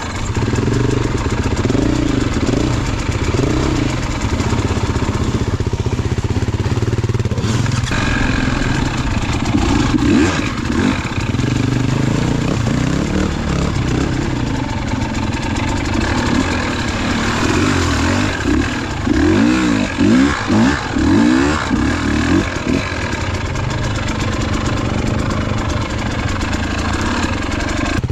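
KTM enduro motorcycle engine running as it is ridden off-road, the revs rising and falling constantly, with a run of quick blips up and down about two-thirds of the way through.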